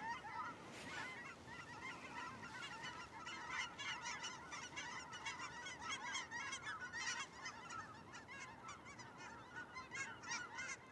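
A flock of geese honking, many short calls overlapping continuously.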